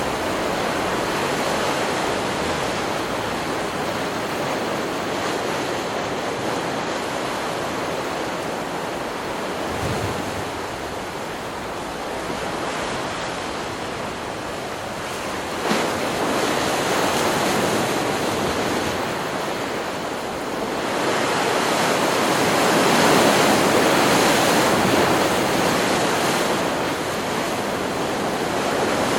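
Ocean surf: waves breaking and washing in a continuous rush, swelling louder about halfway through and loudest in the last third.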